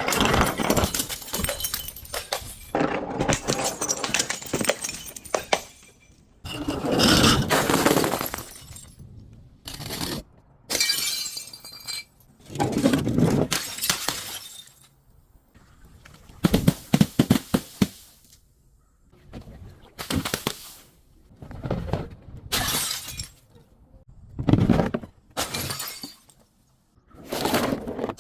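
Glass and other brittle objects being crushed and breaking, in about a dozen separate crunching bursts of a second or two each, with short pauses between.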